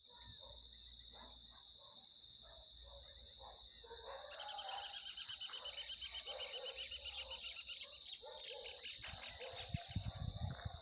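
A natural animal chorus: a steady high-pitched insect drone under assorted bird calls, with a rapid pulsing trill joining about four seconds in. A few low thumps come near the end.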